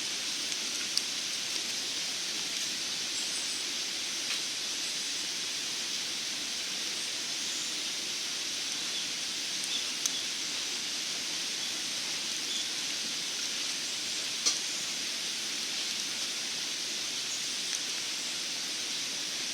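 Small wood fire burning in a backpacking wood stove: a steady hiss with scattered sharp crackling pops, one louder pop near three-quarters of the way through.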